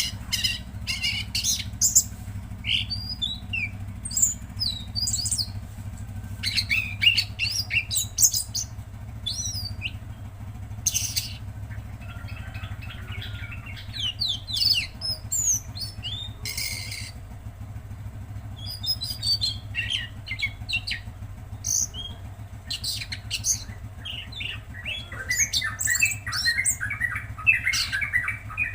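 A tledekan laut songbird singing in varied phrases of quick, sweeping chirps and harsh, rasping notes, with a fast chattering run near the end. A steady low hum runs underneath.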